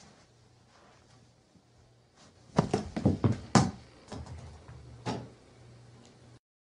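A quick run of sharp knocks and thumps starting about two and a half seconds in, the loudest about a second later, with a couple of weaker knocks after, over a faint low hum; the sound cuts off abruptly shortly before the end.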